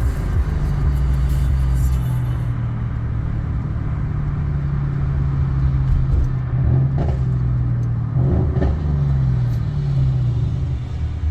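Mercedes-AMG C63 S engine running steadily at a held engine speed, its note rising briefly about eight seconds in and then falling away.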